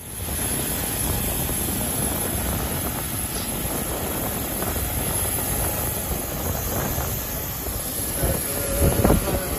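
Steady jet aircraft noise, a continuous rushing hiss with a low rumble, starting abruptly.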